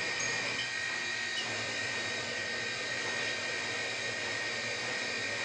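CNC polygon lathe running: a steady machine whirr with several high, steady whining tones and a low hum underneath.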